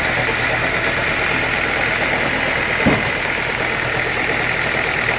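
Sawmill machinery running steadily, a low engine hum under a hissing mid-high whir, with one sharp knock about three seconds in.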